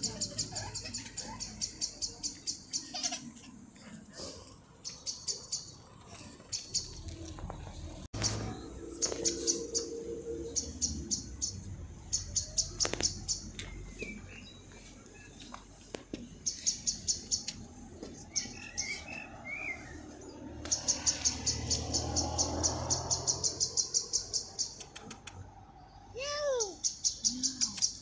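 Small birds chirping in repeated runs of rapid, high chirps, about eight a second, each run lasting a few seconds with pauses between. A short, lower call is heard near the end.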